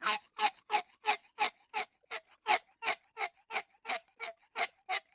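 Clock-tick sound effect, a countdown timer ticking evenly at about three ticks a second.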